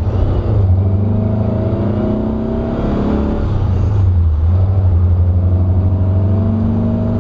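1900 cc air-cooled VW flat-four on dual carburettors accelerating under load, its pitch rising in one pull, dropping about three seconds in, then rising again in a second long pull.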